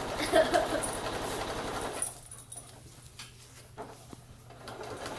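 Electric sewing machine running steadily, stopping about two seconds in and starting up again near the end. A brief animal call sounds right at the start.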